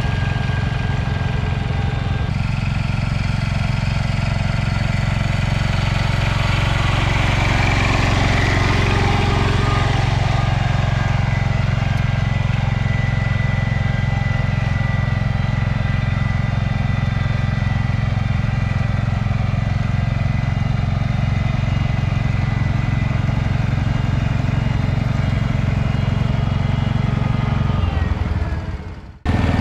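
Small garden tractor engine running steadily, fading away near the end.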